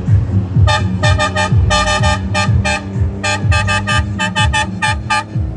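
Quick rhythmic run of short horn toots, a bright pitched honk repeated many times, over music with a deep thudding bass beat.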